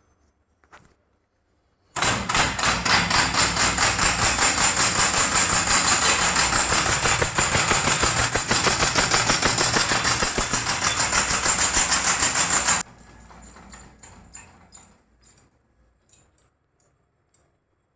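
Small solenoid engine model running: the solenoid pulls the piston in a fast, even clacking rhythm of several strokes a second. It starts abruptly about two seconds in and cuts off suddenly near the end, followed by a few faint clicks.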